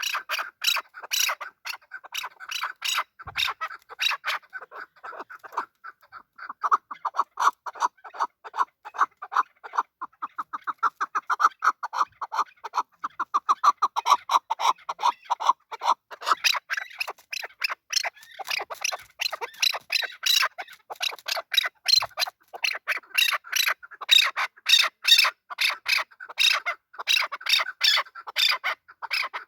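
Male chukar partridge calling: a long run of rapid, repeated notes, several a second, with a stretch of quicker, closer-set notes in the middle.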